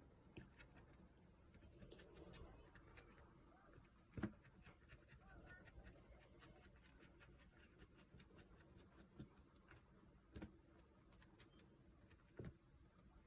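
Near silence: quiet room tone with faint, scattered light taps and clicks, the clearest about four seconds in and twice near the end.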